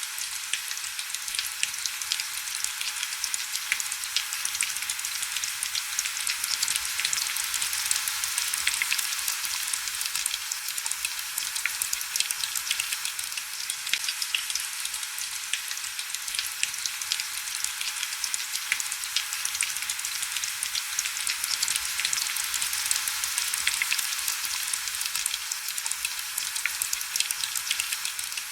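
Heavy rain as a steady, dense hiss full of fine crackling drop ticks, with almost no low rumble.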